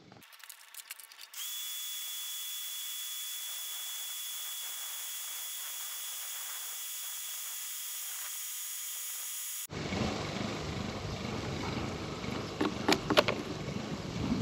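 A small power tool's motor whining steadily at a high pitch for about eight seconds, then cutting off abruptly. After it, wind on the microphone and a few sharp knocks.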